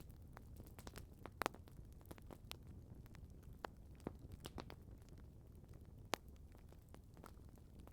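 Campfire crackling faintly: scattered sharp pops and snaps over a low hiss, with the two loudest pops about a second and a half in and about six seconds in.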